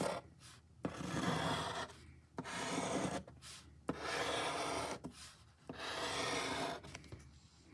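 A drawing tool scratching across paper in four or five long strokes of about a second each, with short pauses between them, as a ball is drawn.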